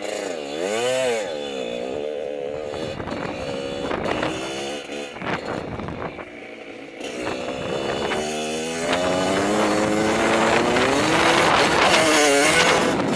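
Dirt bike engine revving, its pitch rising and falling repeatedly, getting louder over the last few seconds.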